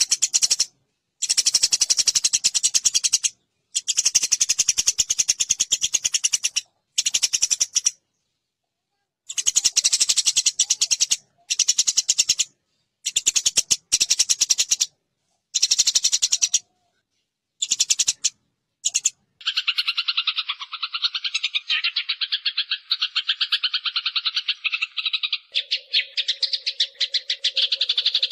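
Eurasian tree sparrows fighting, giving rapid harsh chattering calls in bouts of one to two seconds separated by dead silence. About two-thirds of the way through the chatter turns continuous and lower, and near the end a steady low hum joins it.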